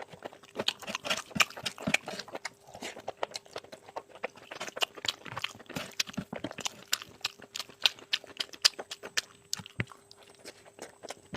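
Close-miked chewing of a mouthful of curry and rice: a dense, irregular run of mouth clicks, smacks and small crunches.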